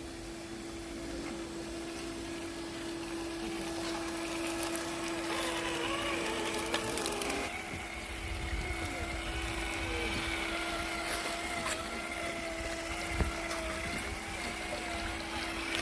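Electric motor and drivetrain of a 1/10-scale RC crawler truck whining as it drives, the pitch wavering up and down with the throttle over a steady low hum.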